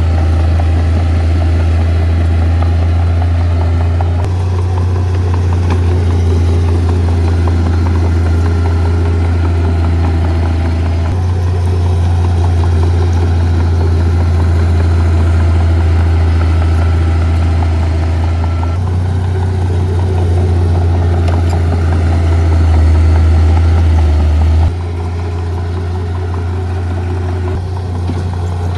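Heavy diesel engines of earthmoving machines running, a loud, steady low drone that changes abruptly about four times.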